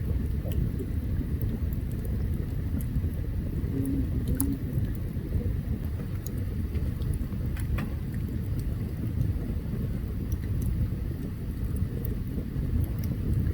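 Open campfire burning: a steady low rumble with scattered sharp crackles and pops.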